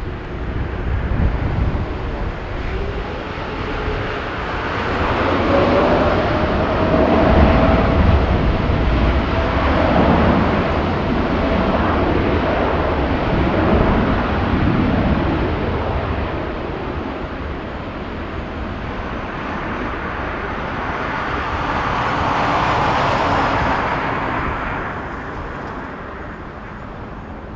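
Jet airliner's engines passing at close range: the noise swells to a peak with a whining tone, eases, swells again with a hiss near the end, then fades. Gusty wind rumbles on the microphone underneath.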